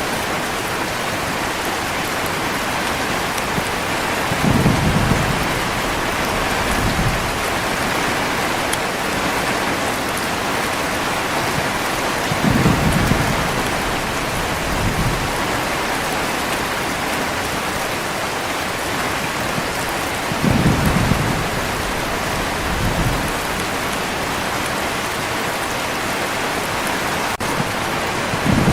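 Heavy rain falling as a steady dense hiss, with low rolls of thunder swelling up for a second or so, in pairs about every eight seconds.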